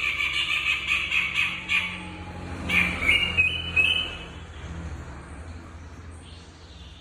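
A jegot songbird calling in squeaky, toy-like notes: a fast chattering squawk for the first two seconds, then a short run of notes stepping upward in pitch about three seconds in.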